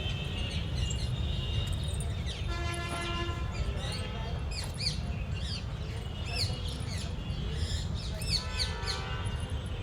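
Small birds chirping, many quick downward-sliding calls overlapping, over a steady low rumble. A brief pitched tone with overtones sounds about two and a half seconds in and again near the end.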